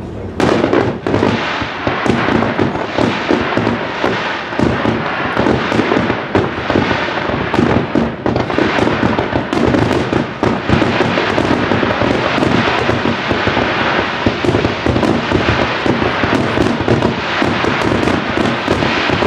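Aerial fireworks shells going off in a dense, continuous barrage at close range, many bangs a second with crackling in between.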